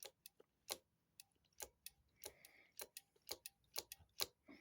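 Sharp clicks, about two or three a second, from a Kawasaki ZRX 1100 brake master cylinder being pumped by hand. Barely any fluid comes out, which the owner puts down to a clogged port in the bottom of the master cylinder.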